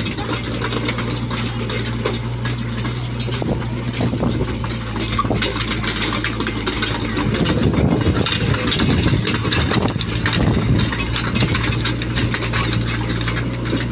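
Mini excavator's diesel engine running steadily, with frequent clicks and knocks. It grows louder and rougher about halfway through, then settles back to an even run.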